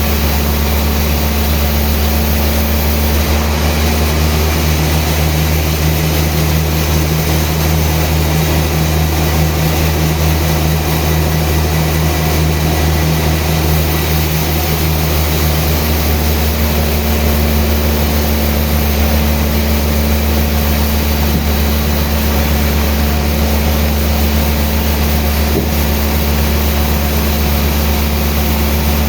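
Sawmill machinery running steadily: a constant low engine-like drone with hiss above it, with no break or change in load.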